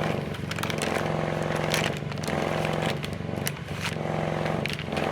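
An engine running steadily at constant speed, the noise of nearby work, with crinkling and scraping of MRE ration-heater packaging being handled over it.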